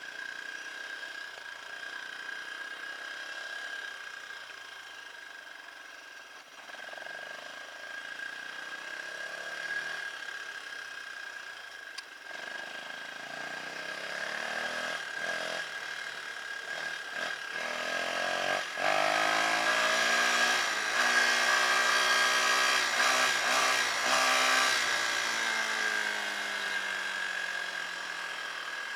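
Dirt bike engine running and revving, its pitch rising and falling and loudest about two-thirds of the way through, then easing down as the revs drop near the end. A steady high whine sits underneath.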